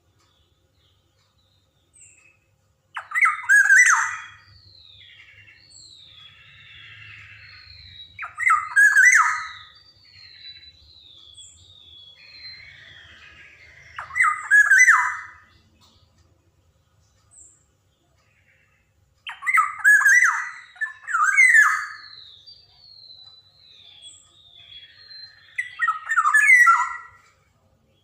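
Black-naped oriole (kepodang) calling: five loud, harsh, nasal calls spaced about five seconds apart, with softer descending whistles and scratchy chatter between them.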